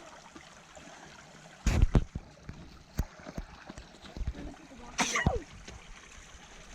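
Shallow stream trickling steadily, with two loud splashes, one near two seconds in and one about five seconds in.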